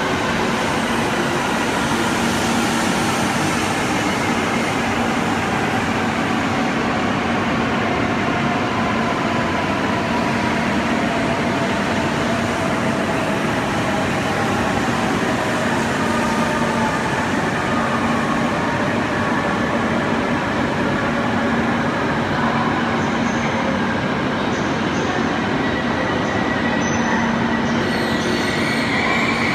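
E7-series shinkansen train rolling slowly into an underground station platform as it brakes to a stop: a steady rumble with faint, slowly falling motor whine, echoing off the platform. A brake squeal starts near the end.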